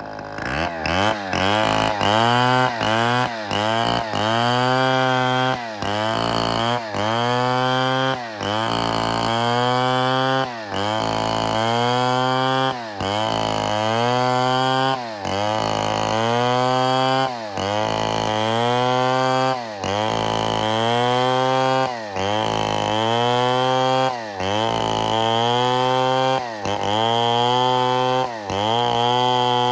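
Chainsaw running under load, its engine note dipping and revving back up again and again, about every second and a half.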